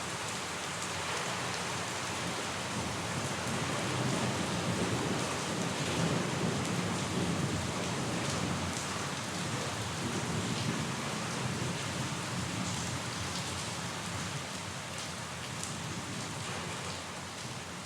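Steady rain falling, with a low rumble of distant thunder that swells a few seconds in and fades away over the following seconds.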